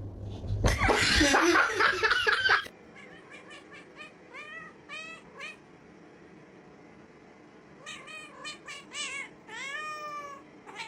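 A cat meowing in runs of short, arched meows. A loud, harsh, noisy cry comes before them, about a second in.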